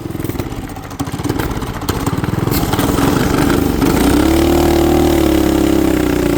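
Small 212cc single-cylinder engine firing raggedly at first, then revving up and holding a steady high speed from about four seconds in.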